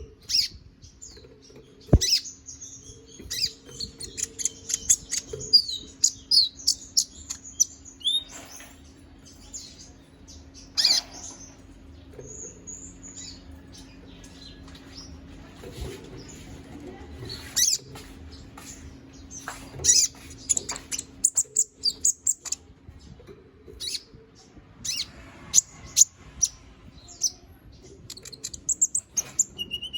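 Konin (kolibri ninja), a small sunbird, singing vigorously: rapid high, sharp chirps and twitters in irregular bursts, over a faint steady low hum.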